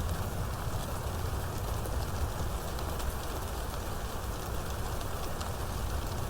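Steady heavy rain falling, with scattered drop ticks and a continuous low rumble underneath.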